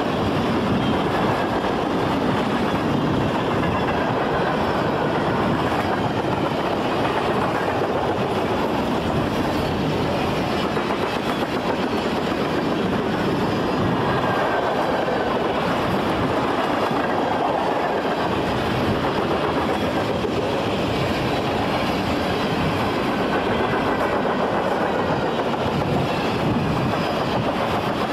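A train's cars rolling steadily past at track speed: a continuous rumble of steel wheels on the rails with clickety-clack, and a faint wheel squeal now and then.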